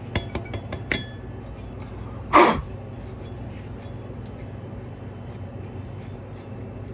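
Light metallic clinks and taps as the condenser fan blade is handled and knocked clean of dust, then one short, loud rushing burst about two and a half seconds in, over a steady low hum.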